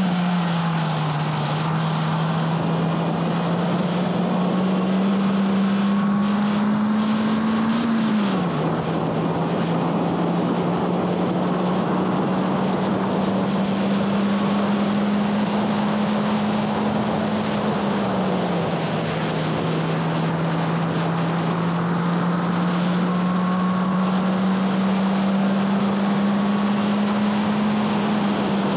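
2011 Honda Fit Sport's four-cylinder engine pulling at high revs. Its note climbs slowly and drops sharply twice, about 8 and 18 seconds in, as at a gear change, over a steady rushing noise.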